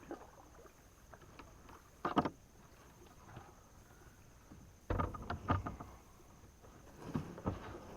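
Knocks and bumps on a kayak, in three short clusters about two, five and seven seconds in, over a faint steady high tone.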